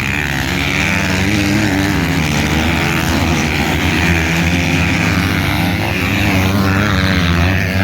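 Several 450-class motocross bikes racing on the track, their engines running together, pitch rising and falling as the riders work the throttle.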